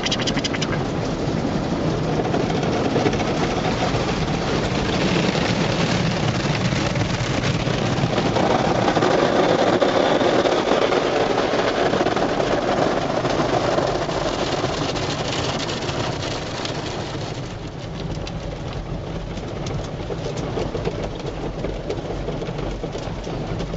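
Automatic car wash at work, heard from inside the car: a steady, loud rush of water spray and machinery against the car. It is loudest in the middle and eases off about three-quarters of the way through.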